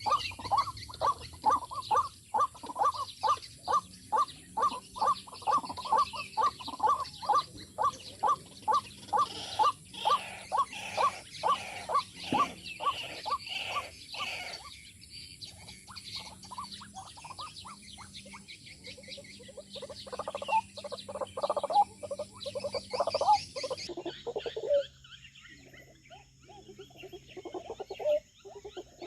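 A watercock calling in a long, even series of deep notes, about two and a half a second, for roughly the first fourteen seconds, with smaller birds chirping above it; after that, softer mixed bird calls and trills.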